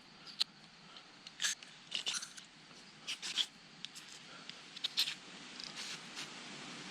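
Scattered short clicks, taps and scrapes of tools and engine parts being handled, a few at a time with gaps between, over a faint steady background.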